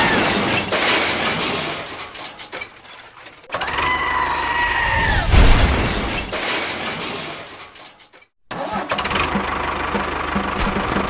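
A small motor whining as it spins up, twice, then after a brief break a steady running sound with a fast, even knock.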